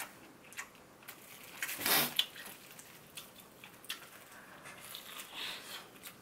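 Chewing and crunching bites into a crisp deep-fried tangsuyuk pork cutlet, in scattered clicks and crackles with the loudest crunch about two seconds in.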